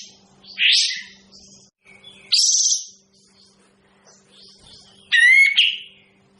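Kapas tembak (olive-winged bulbul) giving three loud, short calls about half a second each, the last a richer note with several pitches. Faint chirps from other birds and a low hum sound between the calls.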